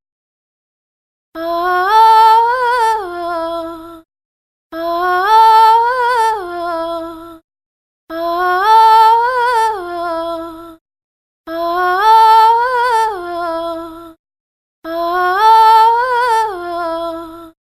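A short sung voice effect, a held note that rises, wobbles and falls back, played five times alike with short silences between: a comic sound cue for an awkward moment.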